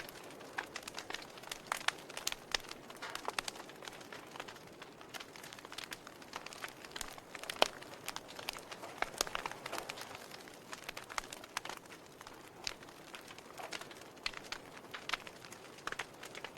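Wood fire burning in a fireplace, crackling with irregular sharp pops and snaps, several a second, over a soft steady hiss.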